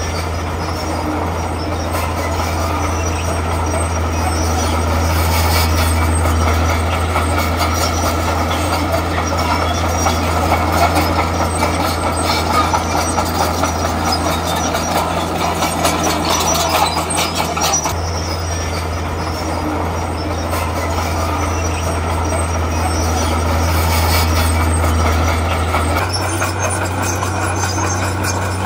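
Heavy earthmoving machinery at work: a crawler bulldozer's diesel engine running steadily under load, with the noisy clatter and scrape of tracks and rock over it. The engine note shifts slightly twice.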